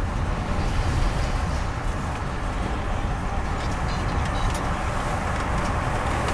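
Amtrak passenger train running along the track, heard from inside the coach: a steady low rumble with a few faint clicks.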